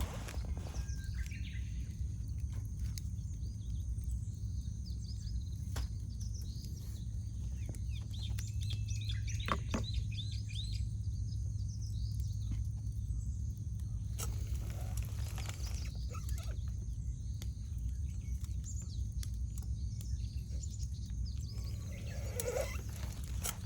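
Wood campfire crackling, with sharp pops here and there, while small birds chirp. A steady low rumble runs underneath.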